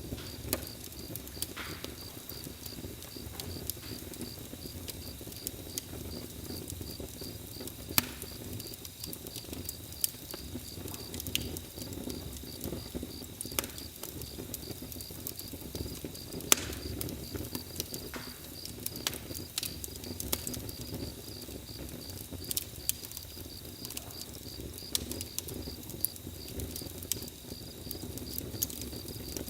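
Campfire crackling, with sharp pops scattered irregularly through it over a low steady rumble of burning, and crickets chirping in a steady pulsing trill behind it.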